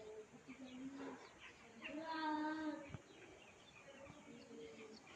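Outdoor ambience of small birds chirping, with a held pitched call about two seconds in that is most likely a distant voice, and brief low calls around it.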